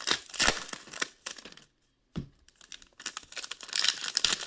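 Foil trading-card pack wrappers being torn open and crinkled by hand. Two stretches of tearing and crackling, with a brief pause between them at about the halfway point.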